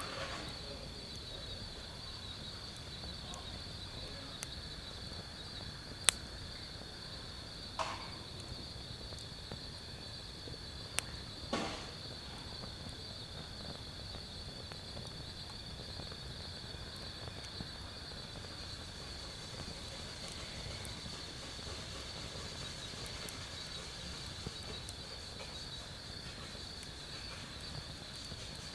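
Night insects, crickets among them, trilling steadily in one high band, with a few sharp pops and crackles from a wood fire burning in a fire pit, the loudest about six seconds in and a couple more around eight and eleven seconds.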